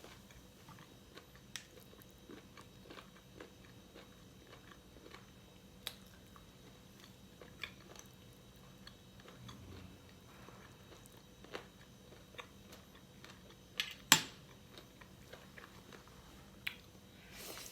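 Close-up mouth sounds of eating fried pork and pork ear: chewing and biting with many small wet clicks. A single loud sharp click about three-quarters of the way through stands out above the chewing.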